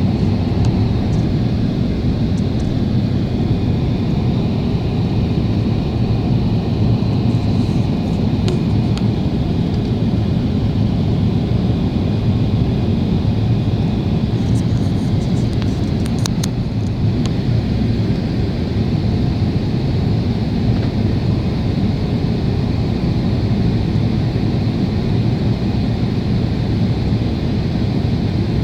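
Steady cabin roar of a Boeing 777 airliner, the engines and rushing air making a constant deep rumble with a faint high whine over it. A few faint clicks come in around a third of the way in and again around the middle.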